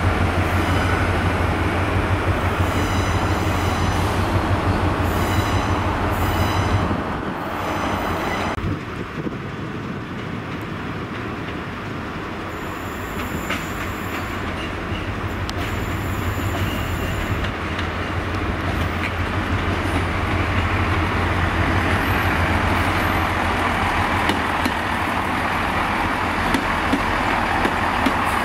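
Trains running through a station: a GWR Hitachi intercity train passes with a steady low drone that drops away about seven seconds in. Then a diesel multiple unit approaches and runs past, its engine and wheel noise building through the second half.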